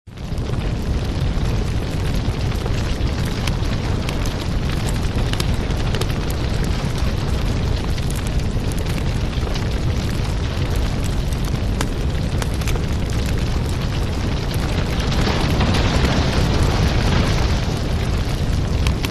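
Crackling fireplace fire: a steady low rumble dense with small pops and crackles, a little brighter about two-thirds of the way through.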